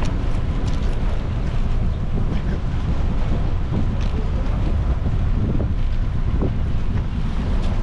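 Wind buffeting an action camera's microphone on a moving bicycle: a steady low rumble from the air rushing past as the rider pedals along.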